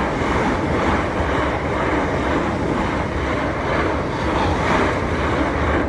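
Class 321 electric multiple unit train passing over the level crossing, a loud, steady rushing noise with a low rumble underneath.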